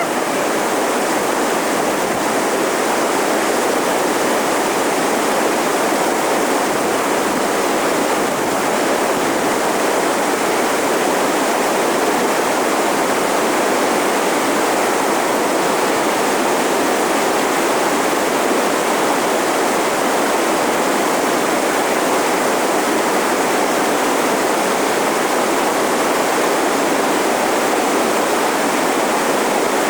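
Steady rush of whitewater rapids, loud and unbroken.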